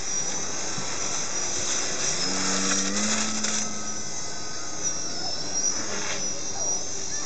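Electric motor and propeller of a radio-controlled float plane whining in flight, the pitch wandering up and down with the throttle.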